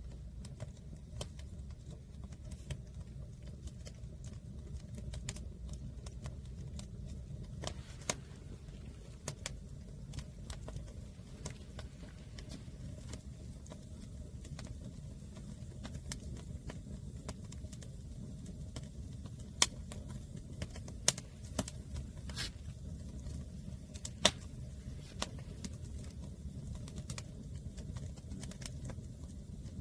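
A fire of green firewood crackling, with irregular sharp pops and a few louder snaps past the middle, over a low steady rumble.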